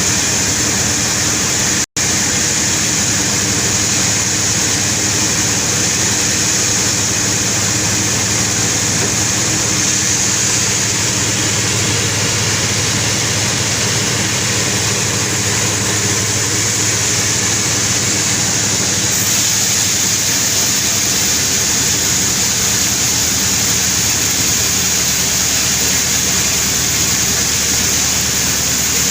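An engine-driven sawmill runs steadily under load while sawing a huge albasia log. A low engine drone carries under a loud, even hiss of the saw in the wood. The sound cuts out completely for an instant about two seconds in.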